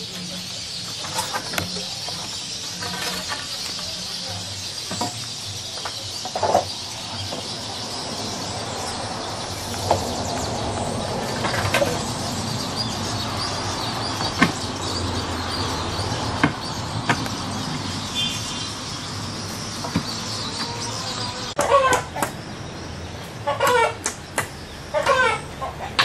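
Chickens clucking and calling, with the calls coming thickest in the last few seconds, over a steady outdoor background with occasional knocks.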